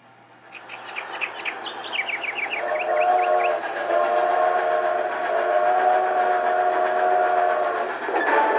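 Steam locomotive sound effect: a hissing, chuffing start with quick repeated clicks, then a chord steam whistle held steadily for about five seconds, changing near the end as the theme music comes in.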